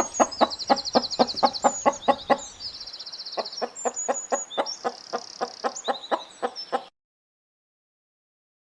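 Chickens clucking rapidly, about five clucks a second, with high chirping over them; the sound cuts off abruptly about seven seconds in.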